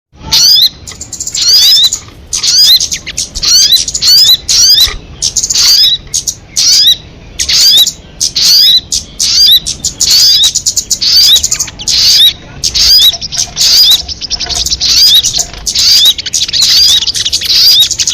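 Recording of a sogon bird calling: loud bursts of sharp, quick chirps with fast upward-sweeping notes, repeated over and over every half second to a second.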